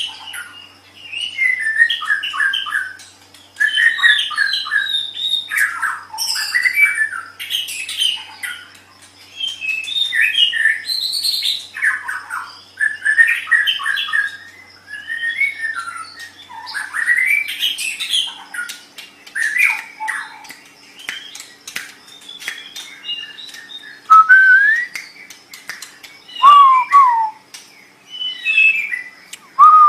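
White-rumped shama (murai batu) singing a long run of varied whistled and chattering phrases, with short pauses between them. Near the end come clearer falling whistled notes.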